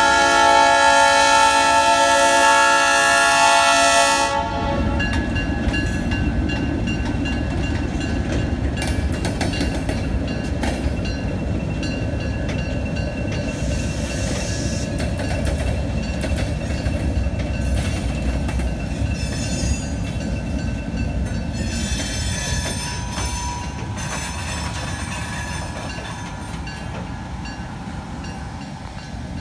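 Alco RS1 locomotive's horn sounding a chord of several tones, cutting off about four seconds in. After it comes the steady rumble and clatter of a string of hopper cars rolling past on jointed track, slowly fading as the train moves away, with a faint wheel squeal late on.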